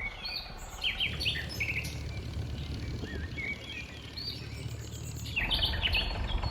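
Several birds chirping and calling over a low background rumble, which gets louder about five and a half seconds in.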